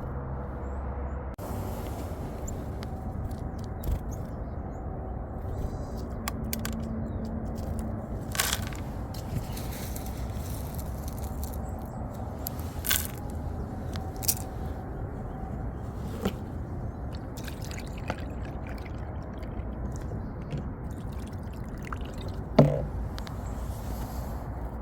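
Outdoor ambience: a steady low rumbling noise, with a few short sharp ticks or taps scattered through it, the loudest near the end.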